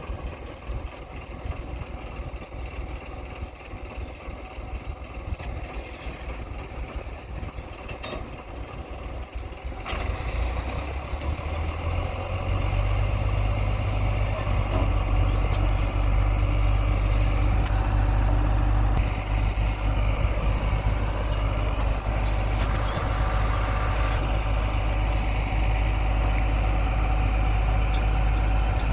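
Heavy diesel engine running. About ten seconds in, a click is followed by a much louder, deep engine note that builds over two seconds and then holds steady.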